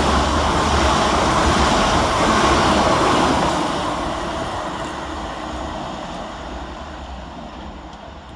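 Two coupled South Western Railway Class 444 Desiro electric multiple units running past, a steady rush of wheel and rail noise that begins to fade about three seconds in and dies away as the train recedes.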